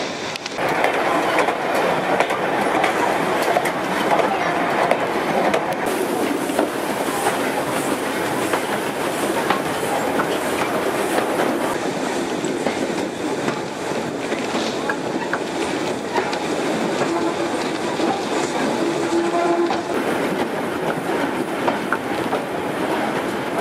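Passenger carriage of a steam train running along the track: a steady rumble with the wheels clicking and clattering over the rails.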